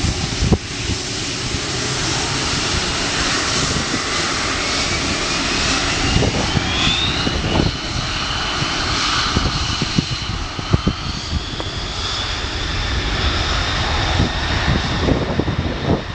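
Three-engined jet airliner's engines running loud, a roar with a high whine that rises in pitch about four to seven seconds in and then holds steady. A few short low thumps sit under it.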